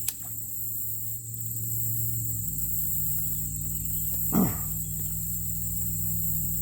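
Steady high-pitched insect drone over a low hum, with a click at the start and a brief sound falling in pitch about four and a half seconds in.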